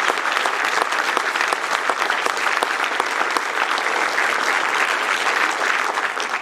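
Large audience applauding: many hands clapping in a dense, continuous ovation.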